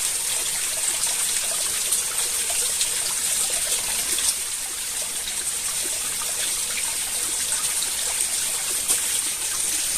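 Stream water running and trickling steadily over rocks, with a constant high-pitched hiss above it.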